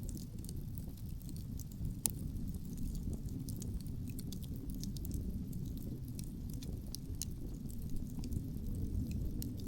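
Wood campfire crackling, with scattered sharp pops and ticks, the loudest about two seconds in, over a steady low rumble of wind.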